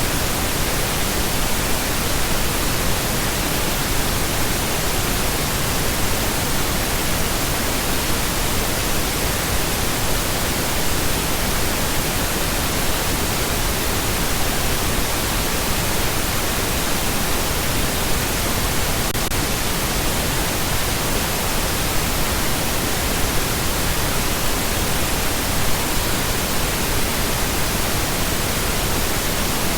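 Pink noise: a steady, even hiss, fuller and softer in the highs than white noise, unchanging throughout.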